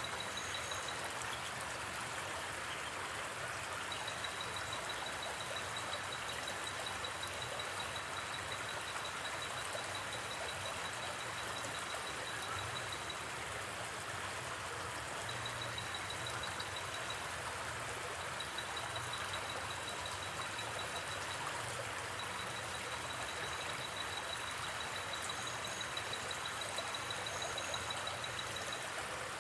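Steady rush of a gently flowing river, with a high, rapidly pulsed chirping trill of night insects starting and stopping in long runs over it.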